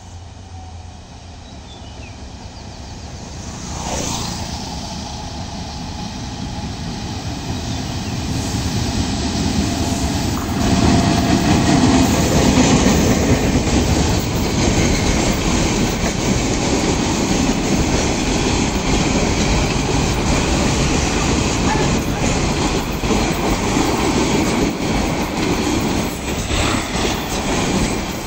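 Diesel-hauled Bangladesh Railway intercity passenger train approaching and then passing close by. The rumble grows over the first ten seconds or so as the locomotive nears, then the long line of coaches rolls past with a steady rumble and clatter of wheels on the rails.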